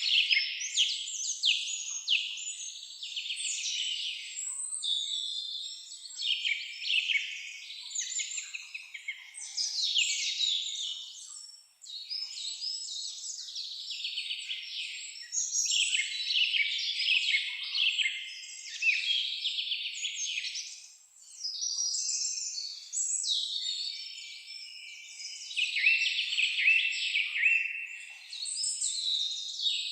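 Forest songbirds singing: fast runs of high, mostly downward-sweeping notes in long tumbling phrases, with brief pauses between phrases.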